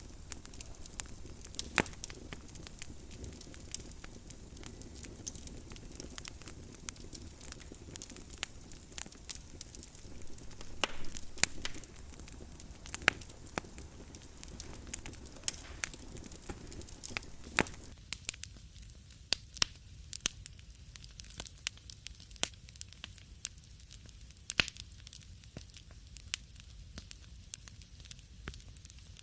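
Wood fire crackling, with irregular sharp pops and snaps over a low steady rumble. About two-thirds of the way in, the background hiss drops away and the pops stand out more.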